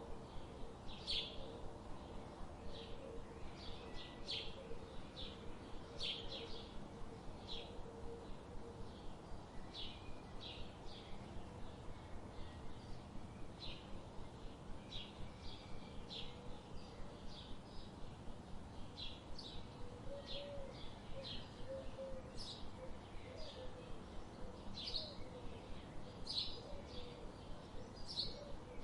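Birds chirping: short, sharp high notes repeated about once or twice a second, with fainter low warbling notes underneath.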